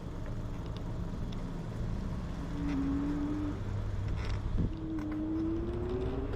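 Electric bike riding along a town road with traffic around, a steady motor whine that rises in pitch over the last second or so.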